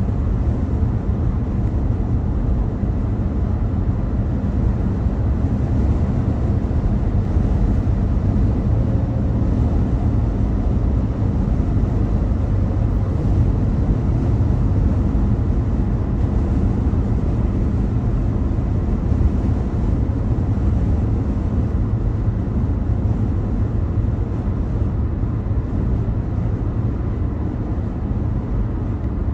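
Steady low rumble of a car driving, tyre and engine road noise without distinct events.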